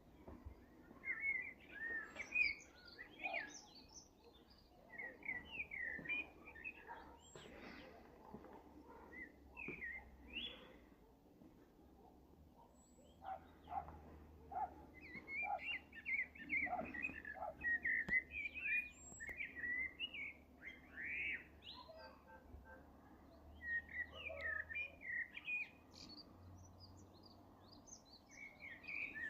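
Small songbirds chirping and twittering in short clusters on and off throughout, over a faint steady outdoor background.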